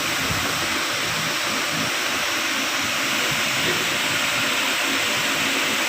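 Car engine running steadily, heard as an even hiss with no distinct whine.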